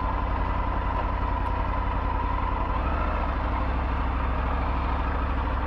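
Triumph Tiger 900 GT motorcycle's inline three-cylinder engine running steadily under the rider, with its note changing about three seconds in.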